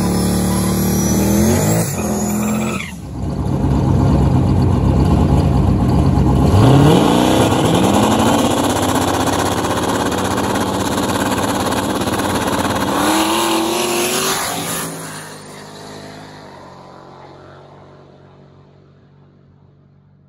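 A Fox-body Mustang's engine held at high revs while it spins its rear tyres in a burnout. Then cars launch from a standing start and accelerate hard, the engine pitch climbing through two upshifts before the sound fades away into the distance.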